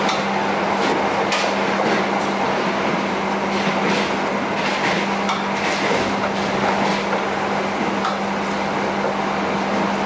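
Steady running noise of a moving train heard from inside a carriage, with a constant low hum. Scattered sharp clinks and scrapes of a metal spatula against a wok sound over it.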